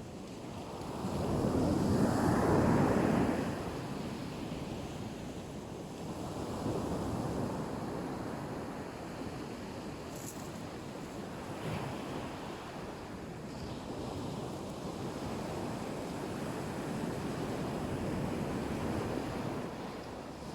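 Black Sea waves breaking and washing onto the shore in slow surges, the biggest about two seconds in and smaller ones later, with wind buffeting the microphone.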